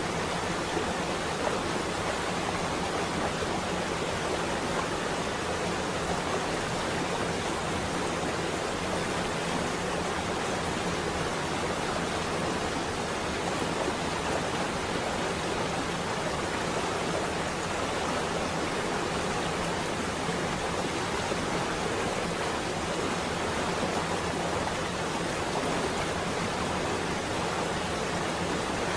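Steady rain on a window, a dense, even hiss with no thunder.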